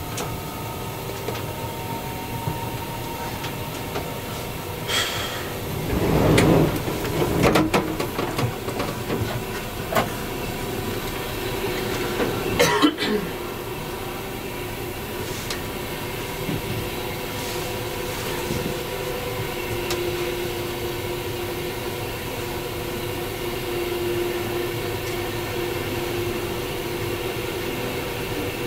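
Running noise inside a locomotive-hauled passenger coach moving at speed: a steady rumble of wheels on rail with a faint steady hum. Two louder bursts of knocks and rattles break through, one lasting about two seconds around a quarter of the way in and a shorter one a few seconds later.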